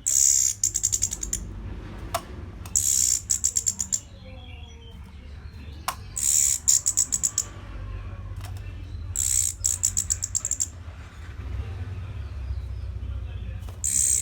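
Orange-headed thrush singing: five short high phrases about three seconds apart, each a bright note running into a fast rattling train of clicks. A steady low hum runs underneath.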